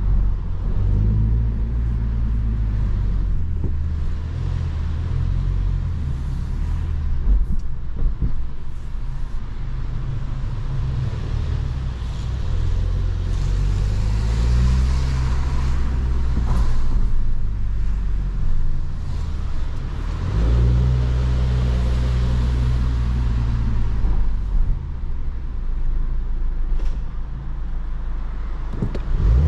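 2022 Mini Cooper S's 2.0-litre turbocharged four-cylinder petrol engine heard from inside the cabin, running at low speed, its low engine note rising and settling several times.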